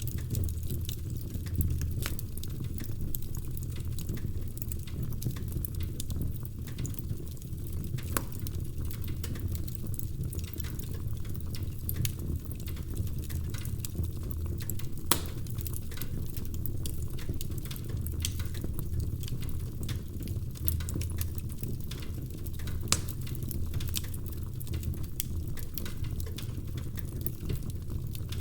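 Wood fire crackling: a steady low rumble of burning with frequent small pops and snaps, and a few louder pops now and then.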